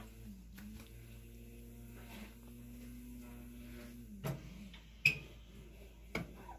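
A few sharp knocks and clicks of a glass baking dish and toaster oven being handled over a steady low hum. The loudest knock, about five seconds in, has a short ring.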